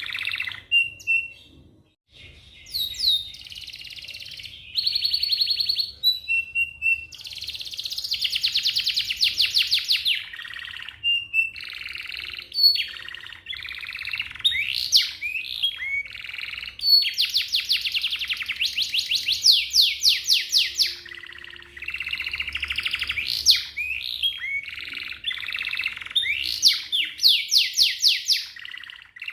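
Domestic canary singing a long, varied song: fast rolling trills of rapidly repeated notes about a third of the way in and again past the middle, between quick rising and falling whistled sweeps, with a brief pause about two seconds in.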